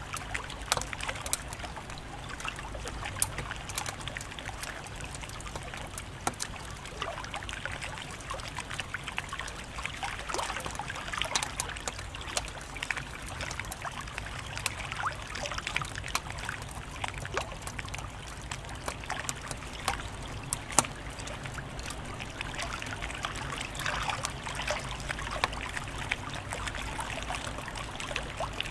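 Wood fire crackling: a steady hiss with frequent sharp pops and snaps scattered irregularly throughout.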